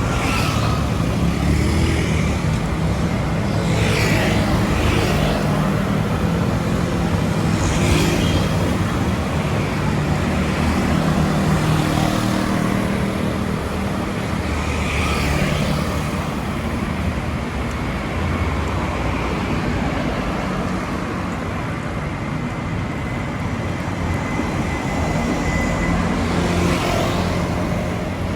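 Road traffic noise heard from a bicycle: a steady low rumble, with vehicles hissing past several times.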